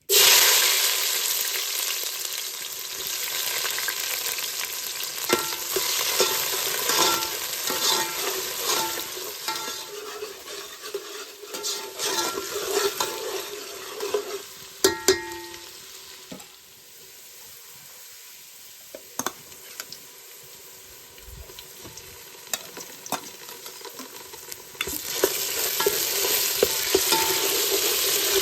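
Hot oil sizzling in a pot as masala fries, with a spoon scraping and clicking against the pot as it is stirred. The sizzle starts suddenly and loud, dies down after about fifteen seconds, and comes back loud near the end.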